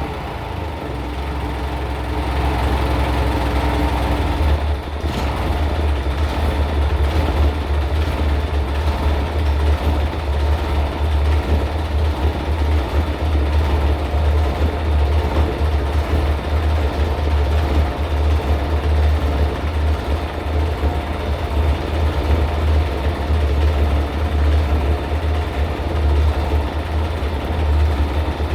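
Sole Diesel Mini 26 three-cylinder marine diesel (Mitsubishi L3E) running steadily at low speed on a test run, with the typical diesel knock. It is a little quieter for the first few seconds, then holds an even beat.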